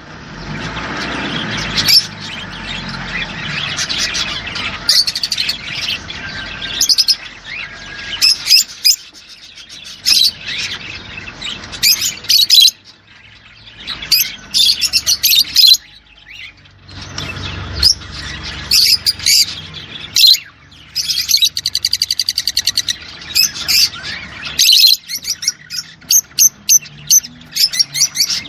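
Small cage birds, sold as 'rose' birds, chirping and singing in quick bursts of high notes, with a fast buzzy trill past the middle. This is the kind of song played to encourage the birds to breed.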